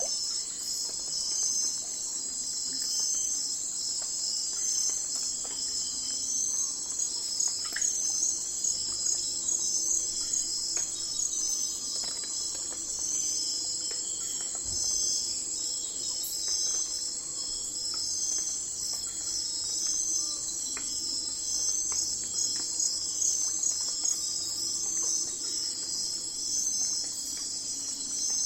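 Night chorus of insects, crickets or katydids, a dense high-pitched chirring that pulses steadily throughout.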